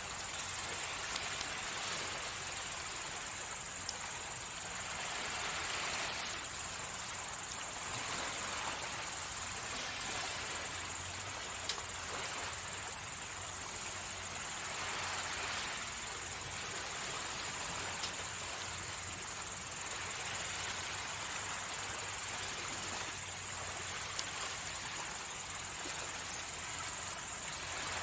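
Small waves washing onto the beach, swelling and falling back every few seconds, under a steady high-pitched chirring. A wood campfire gives a few sharp single pops.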